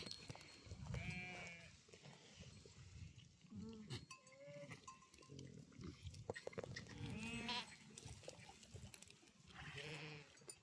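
Goats or sheep bleating faintly, several quavering calls a few seconds apart.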